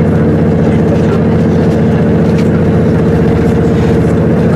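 Train standing at the platform with its engines or equipment running, a loud, steady, even drone that does not change.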